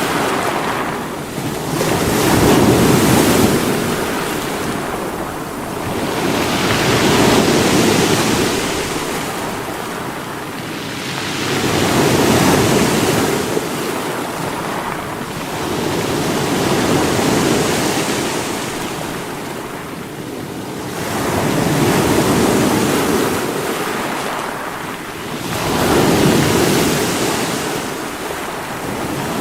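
Sea waves breaking against rocks, a steady wash of surf that swells and falls about every four to five seconds, with wind on the microphone.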